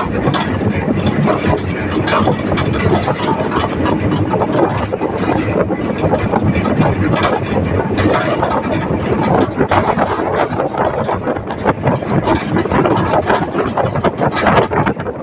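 Tractor running under way, heard from on board: a loud, steady mechanical din full of rattles and knocks, with wind on the microphone.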